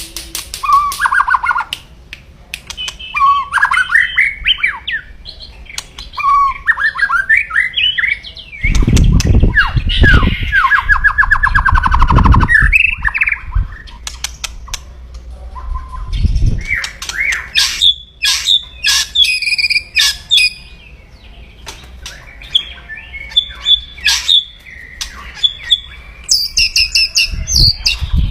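White-rumped shama (murai batu) calling loudly in its aggressive 'kretekan' manner: rapid bursts of whistled glides, fast trills and harsh clicking notes. Heavy low thumps come in the middle.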